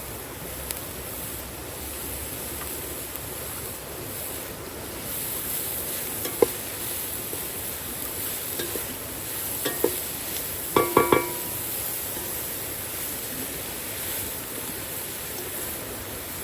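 Cooking sounds: a steady hiss with a few light knocks. About eleven seconds in comes a quick run of four ringing metallic clinks, like a utensil against a pot.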